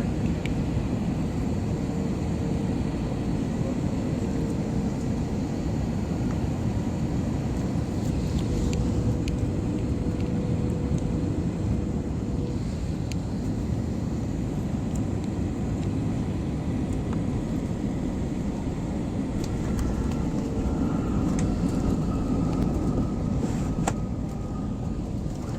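Steady low rumble of jet airliner cabin noise on the landing approach: engine and airflow noise heard from inside the passenger cabin, with a faint steady hum over it.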